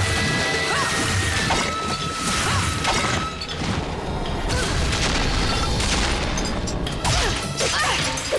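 Cartoon action soundtrack: background music with repeated crashing impact sound effects.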